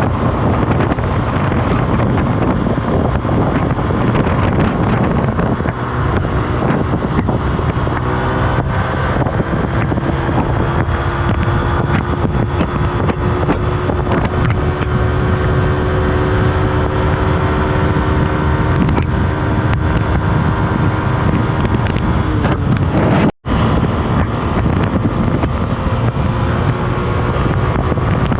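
Motorbike riding along a road, its engine note climbing and easing with speed under heavy wind buffeting on the microphone. The sound breaks off for an instant about four-fifths of the way through.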